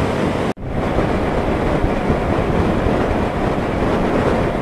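Wind rushing over the microphone of a moving motorcycle, mixed with road and engine noise. The sound is steady, with a very short dropout about half a second in.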